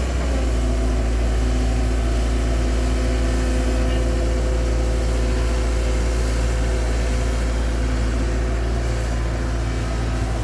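A motor running steadily at an even pitch, over a constant low rumble.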